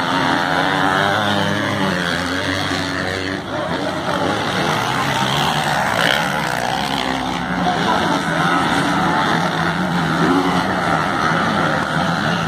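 Racing motorcycle engines, 250 and 450 class bikes, running hard around the track with their pitch rising and falling as they rev and pass.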